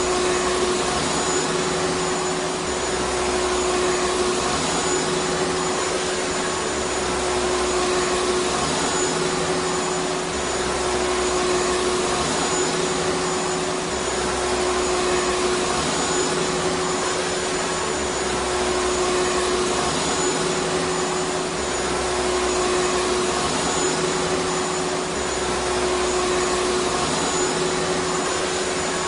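Vacuum cleaner motor running steadily: a continuous rushing hiss with a steady whining tone, swelling slightly in loudness every few seconds.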